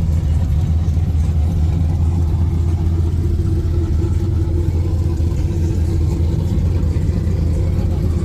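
Turbocharged LSX V8 engine of a box Chevy running at a steady, unchanging low note, with no revving.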